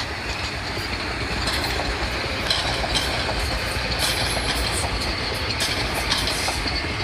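Metro-North commuter train passing close by: steady noise of wheels running on the rails, with scattered clicks as the wheels cross rail joints. It grows louder over the first second or so, then holds steady.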